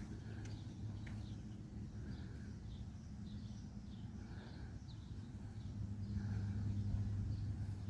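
Steady low drone of an Airbus A330-302 in descent, heard from inside the aircraft: engine hum and airflow. It swells slightly near the end, and faint short higher sounds recur about once a second over it.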